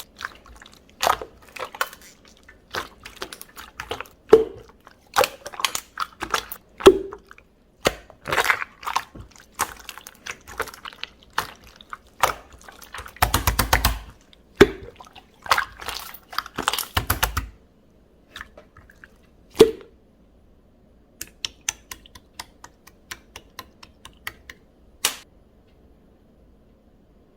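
Chewy jelly-textured slime being squished and poked by hand, giving sharp sticky pops and clicks, with two dense runs of crackling pops in the middle that thin out to light ticks and then stop near the end.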